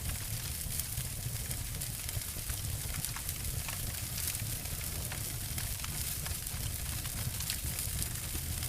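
Two wood fires crackling and snapping: a steady run of small, quick pops over a low, even rumble.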